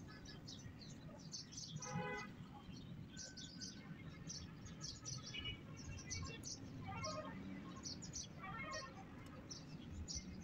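Birds chirping: many short, high chirps repeating throughout, with a few louder, fuller calls about two, five, seven and nine seconds in, over a low background rumble.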